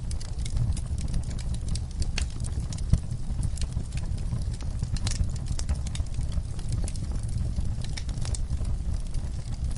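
Wood fire burning in a fireplace: a steady low rumble of flames with irregular crackles and pops, one sharper pop about three seconds in.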